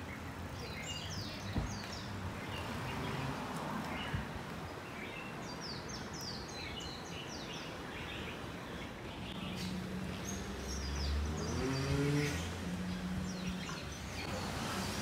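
Small birds chirping in scattered bursts over steady outdoor background noise, with a low rumble swelling about two-thirds of the way through.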